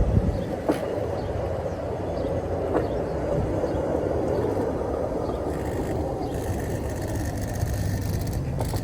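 Steady low rumble of a diesel freight locomotive running, with a few faint clicks.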